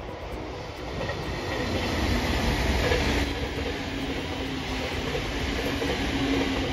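A train passing on the rails, its noise building to its loudest about three seconds in and staying strong.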